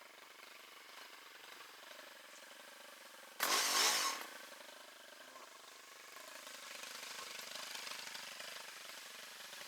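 Two-stroke chainsaw engine running low in the background, revved in one short loud burst about three and a half seconds in; the engine sound rises again somewhat in the second half.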